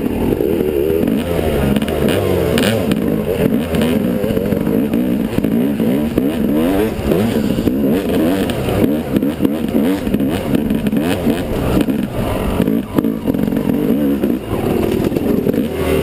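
Yamaha 250 dirt bike engine being ridden, its revs rising and falling constantly with throttle and gear changes, with frequent rattles and knocks from the bike.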